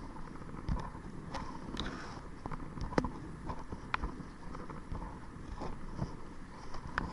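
Kayak on the water under way: irregular light knocks and splashes from the paddle and the hull over a rumble of wind on the microphone.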